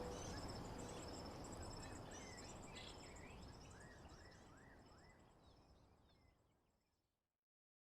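Recorded nature ambience of birds chirping over a steady high insect trill, fading out gradually to silence about seven seconds in.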